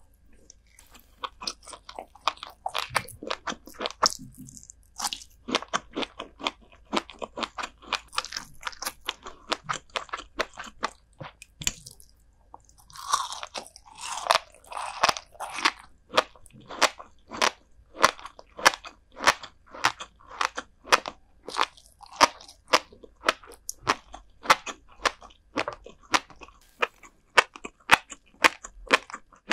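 Close-miked chewing of crunchy salted herring roe (kazunoko): a long run of crisp crunches, steady at about two a second in the second half, with a denser, noisier stretch about halfway through.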